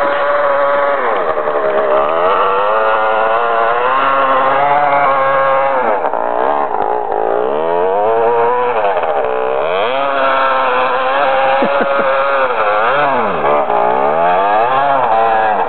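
Husqvarna 250 dirt bike engine being ridden hard, its revs rising and falling over and over, with the pitch dropping right off and climbing again a few times.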